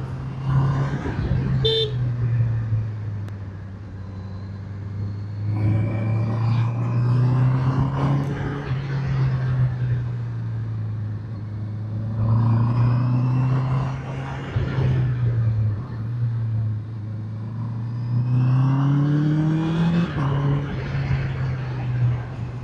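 Motorcycle engine running under way, its pitch rising in three surges of acceleration with drops between, over steady wind rush. A brief high beep about two seconds in.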